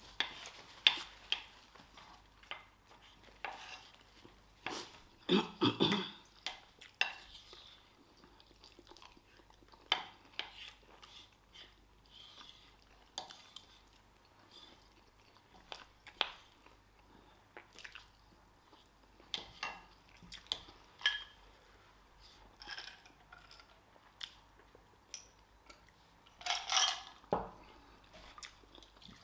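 Cutlery clinking and scraping against a plate while rice and stew are eaten fast, with chewing between. The clinks are sharp and scattered, with a louder cluster about five to six seconds in and another near the end.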